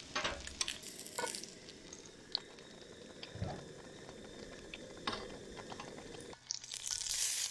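Meatballs frying in hot oil in a cast-iron skillet, a steady sizzle, with a few sharp clicks and taps of metal tongs against a steel saucepan. The sizzle comes back louder near the end.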